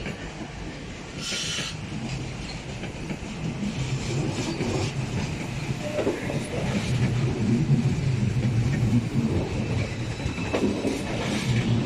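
Passenger train moving through a station, its low rumble growing steadily louder, with a few sharp knocks from the wheels about six and ten and a half seconds in.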